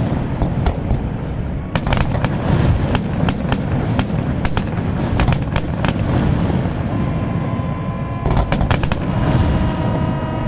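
Aerial fireworks bursting in quick succession: many sharp cracks and bangs over a continuous low rumble. A steady tone of several pitches joins about seven seconds in.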